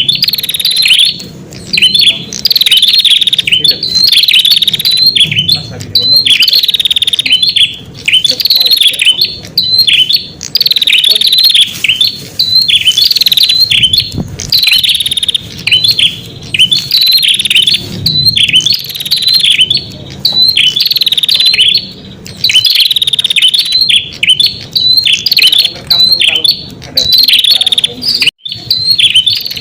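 Recorded song of the red-headed prenjak (ashy tailorbird) played as a lure call: loud, quick chattering phrases repeated about once a second with only brief pauses between them.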